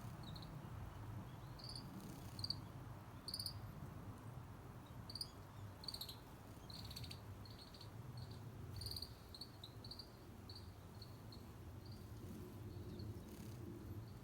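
Small songbirds calling faintly: short, high chips repeated irregularly, sometimes in quick pairs, over a low steady rumble.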